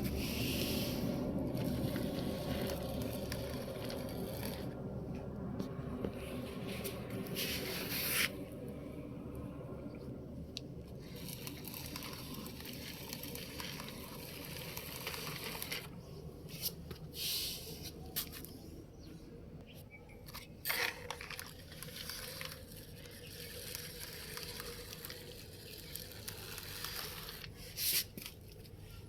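Toy trucks being pushed along by hand, with scraping and rustling handling noises and a few sharper scrapes. A low steady hum fades out over the first several seconds.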